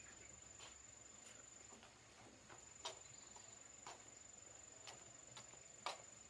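Steady high-pitched insect drone, like a cricket or cicada, with faint irregular taps or light steps roughly once a second, two of them louder.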